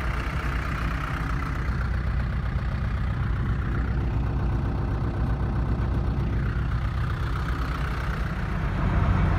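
Engine idling steadily, its sound sitting mostly low in pitch.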